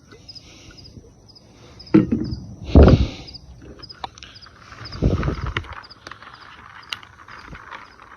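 A short high chirp repeats about twice a second over outdoor ambience. It is broken by dull thumps and rustling of something being handled, loudest around two, three and five seconds in, with a few sharp clicks.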